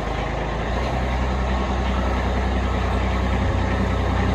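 Kubota B2601 compact tractor's three-cylinder diesel engine running steadily while plowing snow, slowly getting louder.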